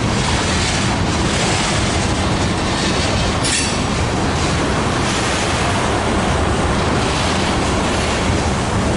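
Freight train rail cars rolling past close by: a steady loud rumble and rattle of wheels on track, with one sharp clank about three and a half seconds in.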